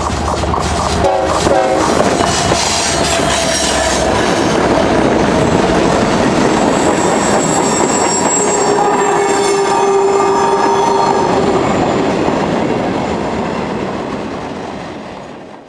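CSX freight train passing close: the GE diesel locomotive goes by, then a long string of mixed freight cars rolling past with steady wheel clatter on the rails. A few drawn-out tones ring out over the rolling noise, the longest midway, and the sound fades near the end.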